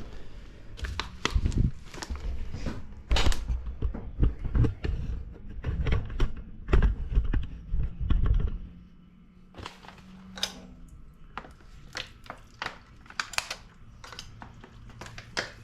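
Chrysler 440 V8 turning over and firing irregularly, with uneven thumps and pops out the exhaust, without catching and running; it is firing out the exhaust while its ignition timing is being advanced. After about eight and a half seconds it stops, leaving a faint hum and a few light clicks.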